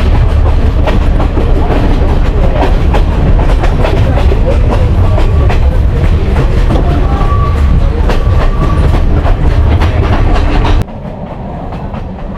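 Passenger train running, heard from inside the carriage: a loud, heavy rumble with the clatter and clicks of the wheels over the rails. About eleven seconds in it drops suddenly to a quieter running noise.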